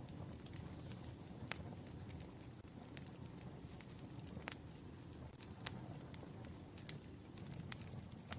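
Wood fire burning: a steady low rumble with irregular sharp crackles and pops, the loudest about a second and a half in.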